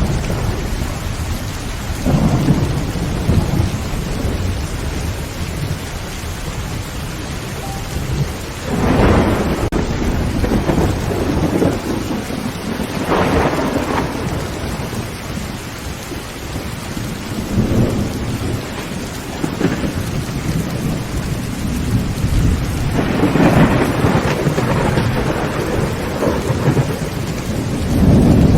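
Heavy rain pelting a tin roof without a break, while thunder rumbles rise and fade over it about half a dozen times. The strongest rumbles come about a third of the way in and again towards the end.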